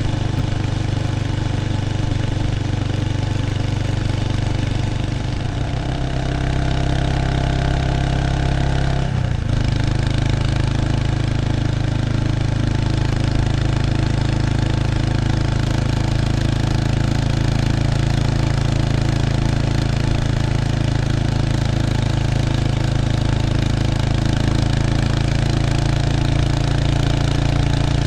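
Exhaust of a 1993 Kawasaki Estrella's 250cc single-cylinder engine through its stock muffler, heard close at the tail, running steadily. The engine note changes about six seconds in and again, after a brief drop, about nine seconds in, then holds steady.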